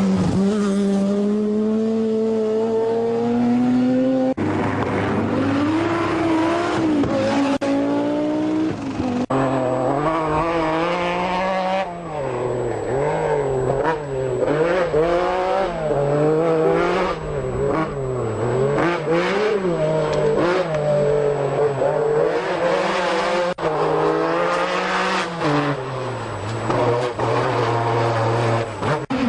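Group B rally car engines at high revs, pitch climbing steadily and then rising and falling rapidly as the cars shift up and down through the gears, in several clips joined with abrupt cuts.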